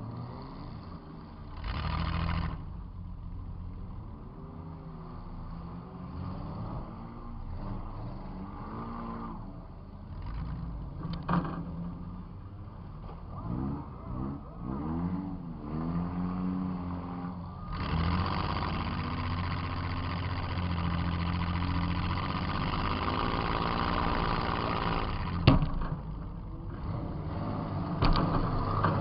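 Demolition derby car's engine, heard from inside the car, revving up and down repeatedly, then held hard at high revs for several seconds, with a few sharp bangs, the loudest about 25 seconds in.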